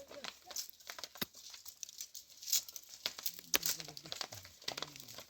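Dry crinkling and crackling, with many sharp irregular clicks and snaps, as of dry plant material being handled.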